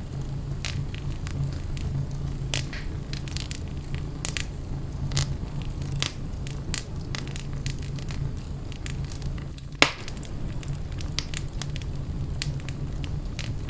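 Wood fire burning in a fireplace, crackling and popping steadily over a low rumble of flame, with one louder pop a little under ten seconds in.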